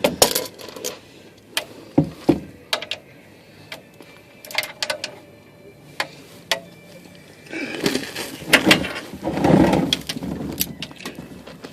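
Hand tools clicking and knocking against metal as a 14 mm socket wrench is worked on the car's oil pan drain plug, with a longer scraping, rustling stretch about eight seconds in.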